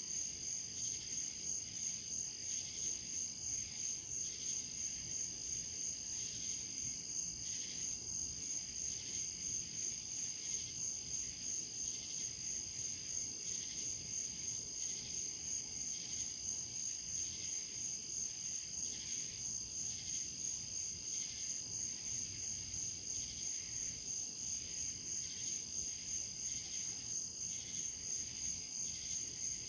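Crickets chirping in an even, high-pitched pulse, several chirps a second without a break.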